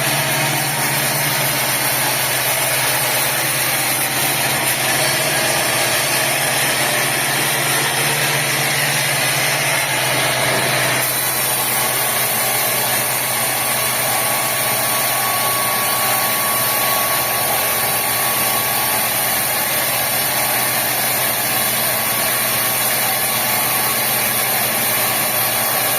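Sawmill machinery running steadily, a loud, dense mechanical noise, with a change in its tone about eleven seconds in.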